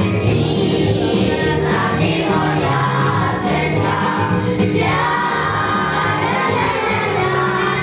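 A group of children singing a song together over an instrumental accompaniment.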